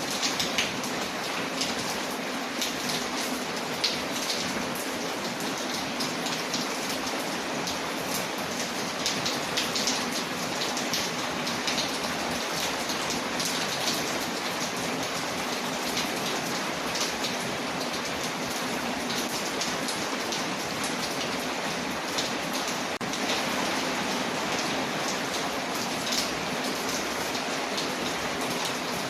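Steady rain on a window mixed with a crackling fireplace fire: an even hiss scattered with many small sharp pops and ticks.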